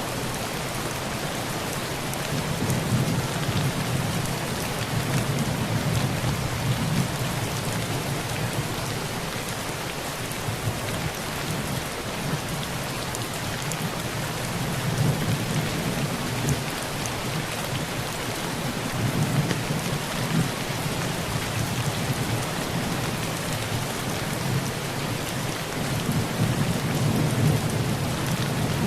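Heavy rain on a tin roof, a steady dense patter, with low thunder rumbling that swells and fades several times.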